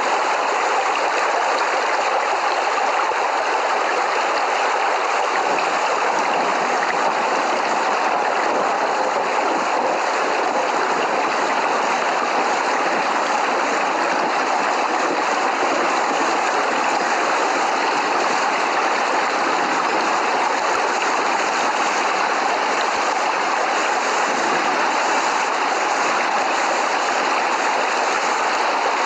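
Steady rain, an even hiss without breaks; no thunder in this stretch.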